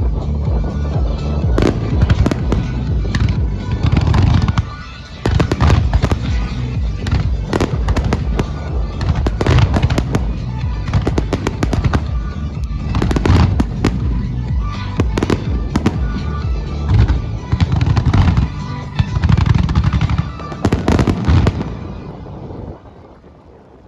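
Fireworks bursting in rapid, repeated bangs and crackles over music played through the show's loudspeakers; the bangs and music fall away sharply near the end.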